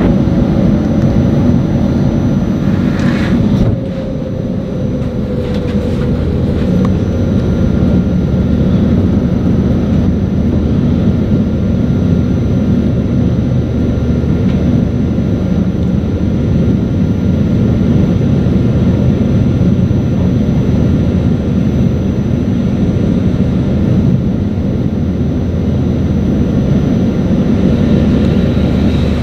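Steady low rumbling drone of a train moving alongside, heard through a closed carriage window, with a faint whine that slides slightly down in the first few seconds. The sound drops a little about four seconds in, then carries on steadily.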